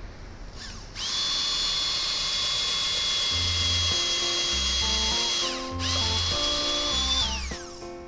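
Electric drill running at a steady high whine into a mortar wall, stopping briefly about four and a half seconds in, then running again and spinning down with a falling pitch. Background music plays underneath.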